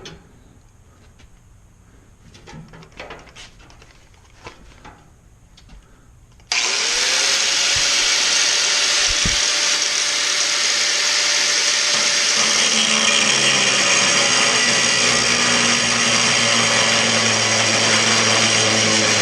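A few light knocks and clicks, then about six seconds in an electric angle grinder switches on. Its motor whine rises as it spins up, and it keeps running steadily and loudly.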